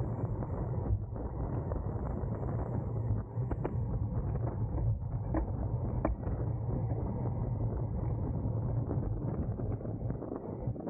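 Steady wind and road noise from racing a bicycle in a pack, with a few sharp clicks.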